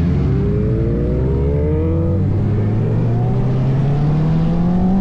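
Superbike engines accelerating hard. One rising engine note climbs and breaks off about two seconds in, while a deeper one rises steadily underneath.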